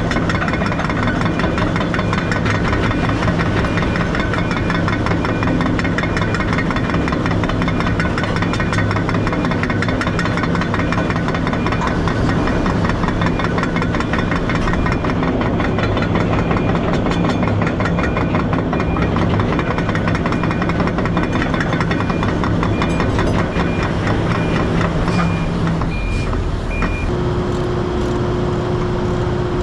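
Semi truck's diesel engine running steadily, its note shifting near the end.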